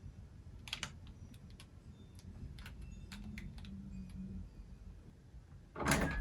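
Typing on a computer keyboard: light, irregular key clicks, with a louder burst of noise just before the end.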